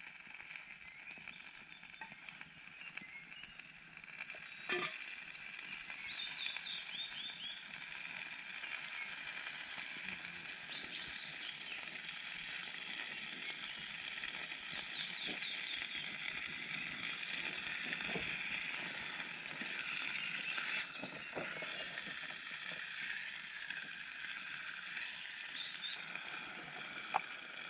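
Outdoor ambience: a bird repeats a short descending run of chirps every few seconds over a steady high hiss, with scattered faint ticks and one sharp click about five seconds in.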